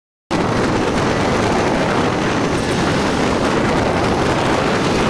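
Loud, even rush of wind and road noise from a Toyota LandCruiser 79 Series driving at speed. It cuts in abruptly a moment in.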